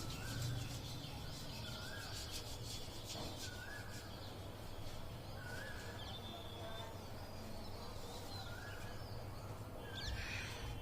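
A bird calling a short rising note over and over, about once every second and a half, over a steady low hum.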